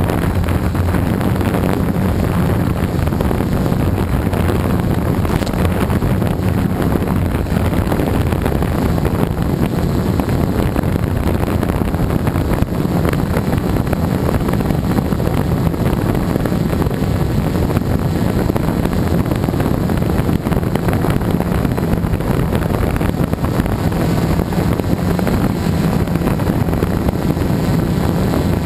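Gaui 330X quadcopter's brushless electric motors and propellers buzzing steadily in flight, heard from its onboard GoPro, with wind rushing over the microphone.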